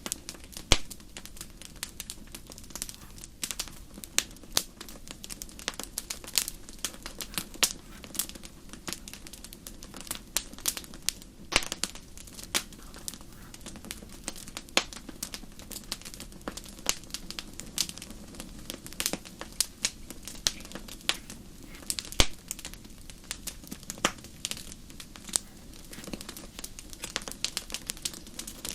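Wood fire crackling: dense, irregular sharp pops and snaps over a steady low background.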